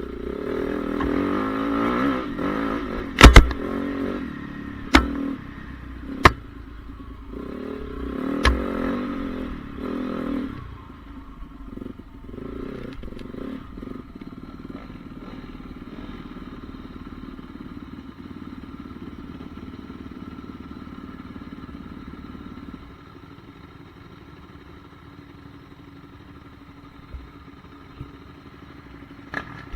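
Honda CRF450R motocross bike's single-cylinder four-stroke engine running and revving for the first ten seconds or so, with several sharp, loud knocks. It then drops to a quieter, steady drone.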